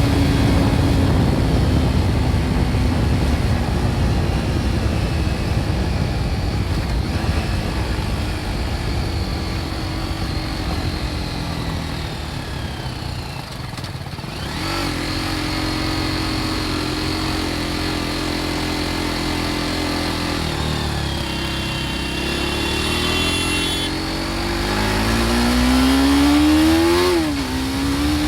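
BMW G310 R's single-cylinder engine through its original exhaust, over wind and road noise: the pitch sags slowly through the first half, holds steady for a few seconds, drops, then climbs under acceleration with a quick dip for an upshift near the end.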